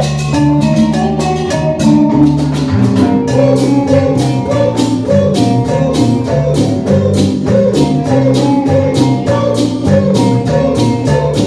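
Band playing an instrumental cumbia passage: a bass line under a melody, with a steady percussion beat.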